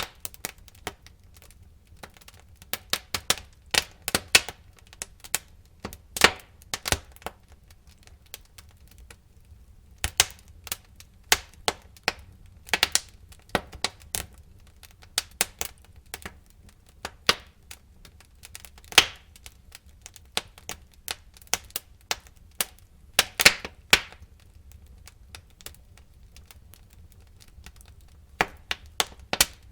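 Wood fire crackling in a fireplace: irregular sharp pops and snaps from burning logs, coming in clusters with short lulls, over a low steady rumble of the flames.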